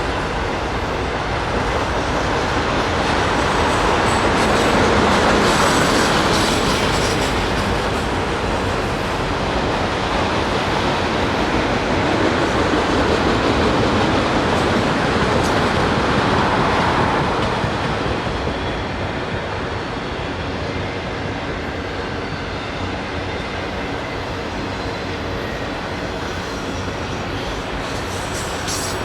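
Norfolk Southern freight train cars rolling by: a continuous rumble of steel wheels on rail, a little louder for the first part and easing slightly after about eighteen seconds.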